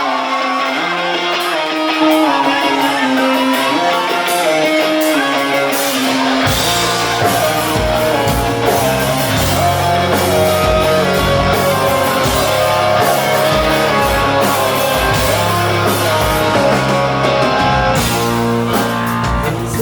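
Live rock band playing an instrumental intro: guitar alone at first, then bass and drum kit come in about six seconds in.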